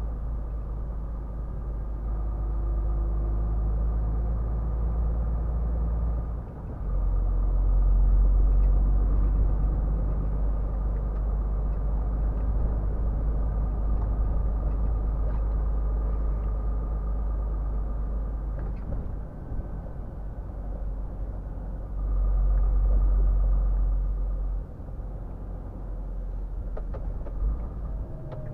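Scania R450 truck's 13-litre straight-six diesel running on the highway with steady road rumble. Twice it gets louder for a few seconds, with a short dip before the first swell and after the second.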